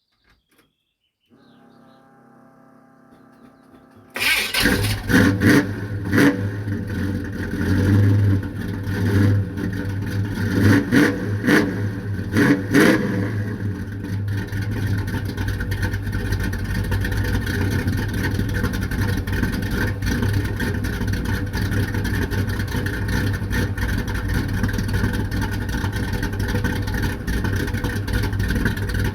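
Chevrolet Impala V8 starting: a faint steady whine, then the engine catches about four seconds in. It is blipped several times over the next ten seconds and then settles into a rough idle.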